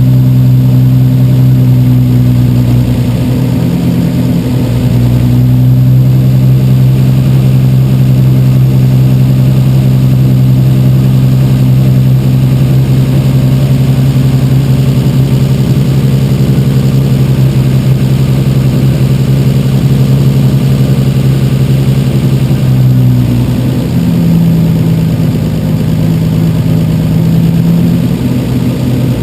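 Rebuilt Toyota 1JZ-GTE turbocharged inline-six running steadily, its note shifting briefly a few seconds in and again near the end.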